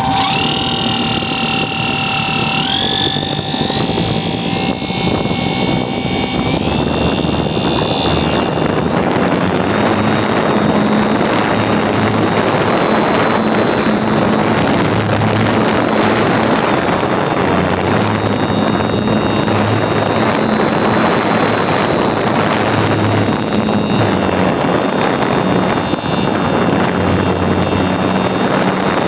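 RC model airplane's motor and propeller, heard from a camera taped under the plane's belly, whining higher in steps over the first several seconds as the throttle comes up, then running steadily at full power over a constant rush of airflow.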